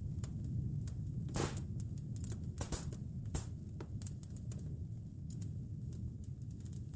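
Wood fire crackling in a fireplace: irregular small snaps and a few louder pops over a steady low rumble.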